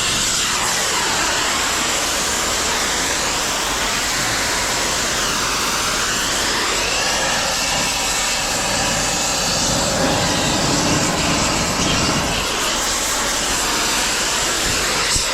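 Heavy machinery running steadily with a loud, even hiss.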